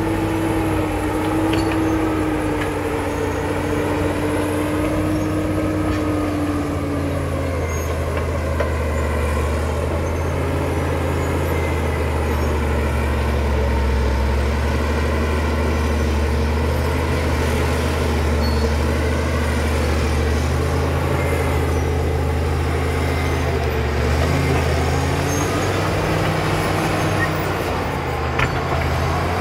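Caterpillar D7 crawler dozer's diesel engine running steadily, its pitch shifting as the load changes about a quarter of the way in and again near the end. A steady whine sounds over it for the first few seconds.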